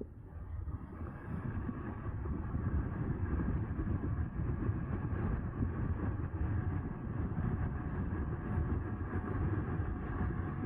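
Riding noise of a Bafang BBSHD mid-drive e-bike in motion: low rumble and wind buffeting on the microphone that build over the first couple of seconds as it picks up speed, then hold steady, with a faint steady whine above.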